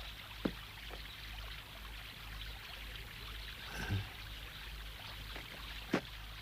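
A stream or river running steadily, with a few faint clicks.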